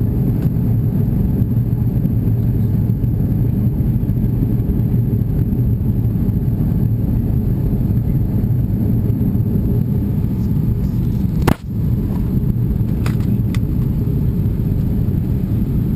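Steady low rumble of cabin noise in an Airbus A340-600 in flight, from its four Rolls-Royce Trent 500 engines and the air rushing past. One sharp click about eleven and a half seconds in, with a momentary drop in the noise.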